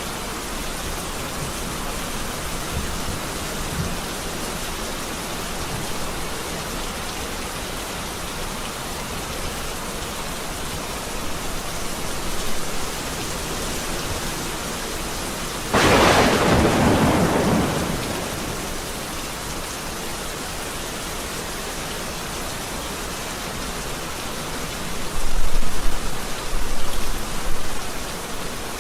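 Steady heavy rain falling through a thunderstorm. About halfway through, a sudden close thunderclap cracks and fades over a couple of seconds, and low rolling thunder rumbles near the end.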